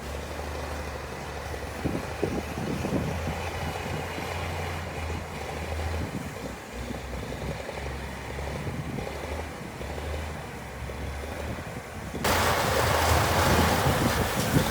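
Heavy earthmoving machine's diesel engine running with a steady low drone, with scattered knocks. About twelve seconds in, the sound abruptly gets louder and a hiss joins it.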